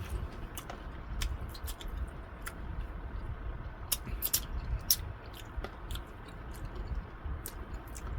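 Close-up chewing and biting of food, with many irregular sharp clicks and smacks from the mouth.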